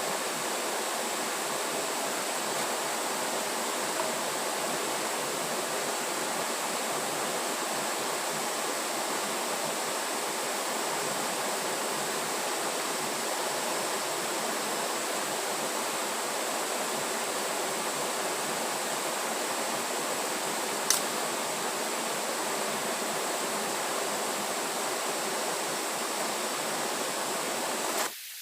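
Steady rushing of flowing water, with a faint thin high tone held throughout and a single sharp click about 21 seconds in; the rushing cuts off abruptly near the end.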